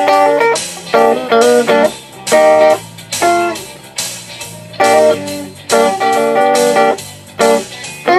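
Electric guitar on a clean, undistorted tone, playing picked chords and single-note phrases, with a note bent in pitch about three seconds in.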